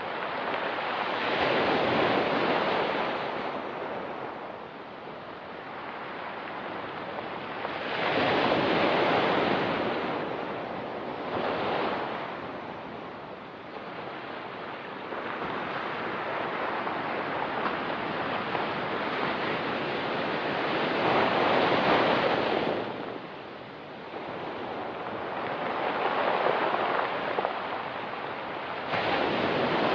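Ocean surf breaking on the shore, a steady wash of water that swells and eases in a series of surges a few seconds apart.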